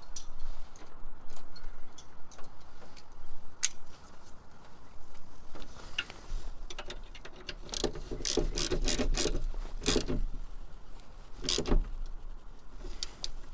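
Scattered metallic clicks, taps and rattles of parts and tools being handled while fitting pipework on the car, busiest between about eight and ten seconds in, with a sharper knock near the end.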